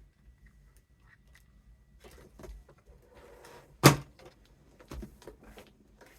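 Handling noises of crafting: light rustling of a gift bag being pressed and smoothed, with scattered small taps and one sharp knock about four seconds in.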